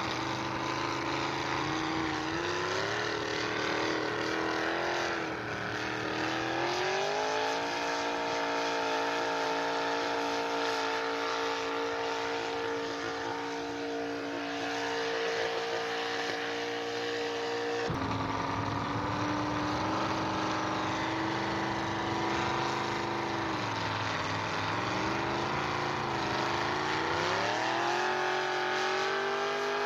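Pulling truck's engine under load, revving up and then holding steady at high rpm. About eighteen seconds in, the sound breaks off abruptly and an engine carries on, dipping and then climbing in revs again.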